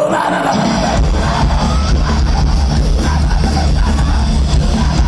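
Loud heavy metal music with electric guitar; heavy bass comes in about a second in and holds steady.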